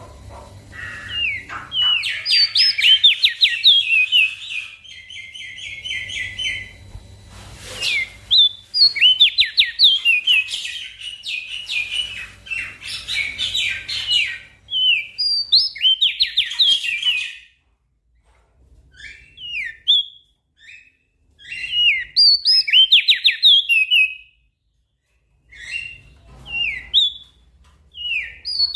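Small songbird singing rapid chattering phrases of quick, sharply sweeping high notes, some runs lasting several seconds, with short pauses between them.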